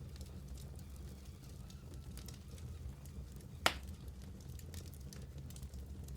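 Wood fire burning in a fireplace, crackling with scattered small snaps over a low steady rumble, and one loud pop a little past halfway.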